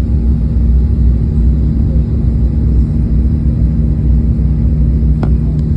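Jet airliner heard from inside the cabin: a steady low rumble of engines and airflow with a constant low hum, and two faint clicks about five seconds in.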